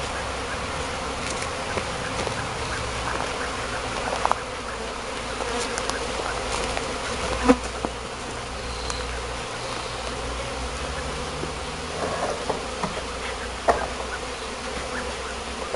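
A swarm of honeybees buzzing steadily in a dense cloud around the hive, stirred up and agitated after being shaken off the board. A few light knocks sound over the hum.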